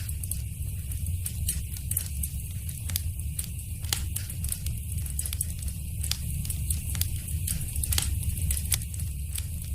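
Wood fire burning in a fireplace, crackling with frequent sharp pops over a steady low rumble of the flames; a couple of the pops stand out louder.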